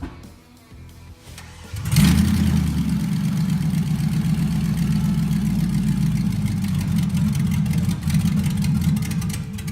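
The swapped-in 235k-mile 5.3 LS V8 of a 1990 Toyota Land Cruiser FJ62 being started: it comes in suddenly about two seconds in and then runs steadily.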